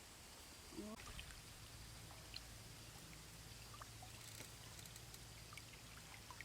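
Near silence: a faint outdoor background with a few scattered small ticks and drip-like clicks.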